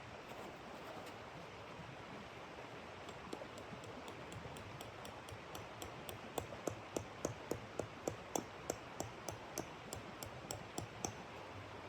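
Footsteps crunching and squeaking in snow, about three steps a second, getting louder from about halfway and stopping near the end, over a steady hiss.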